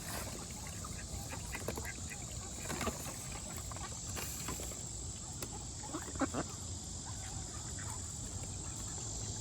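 Ducks quacking now and then: a few short calls, the clearest about six seconds in, over a steady low background rumble.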